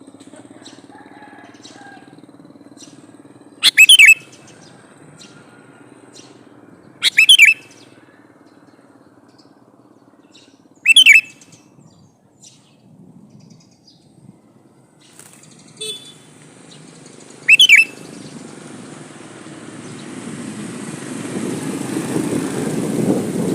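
Male sooty-headed bulbul giving four short, loud calls, spaced a few seconds apart. Over the last few seconds a rushing noise builds up, louder toward the end.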